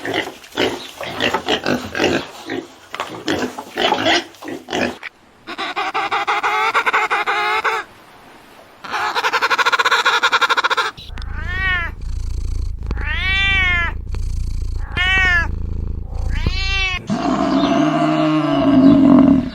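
A run of different animal calls, one after another: rapid short grunt-like calls for the first five seconds, then two longer pitched calls, then four short arching calls over a low hum, and a deeper call near the end.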